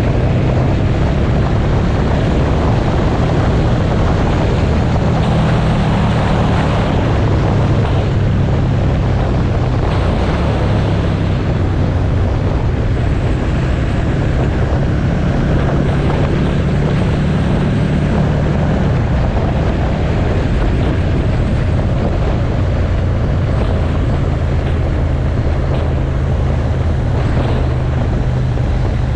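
Motorcycle engine running while riding, its note rising and falling several times, with wind rushing over the microphone.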